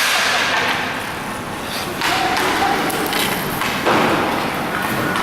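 Inline hockey play: sticks, puck and skate wheels knocking and clattering on the rink, with several sharp thuds over a noisy background and voices mixed in.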